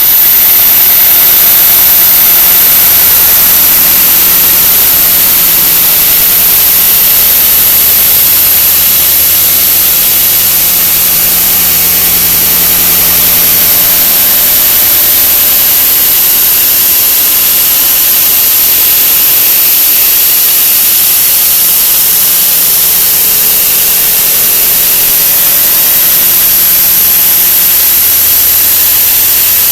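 A 'wah wah' sound effect sped up so far that it has become a loud, steady hissing roar, with a high steady whine on top.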